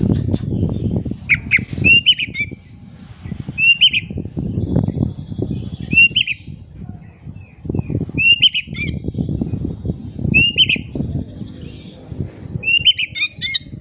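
Oriental magpie-robin (kacer) calling in short clusters of sharp, rising whistled notes about every two seconds, the loud repeated 'tembakan' style of a bird in full song. Between the calls come bursts of low rustling and fluttering.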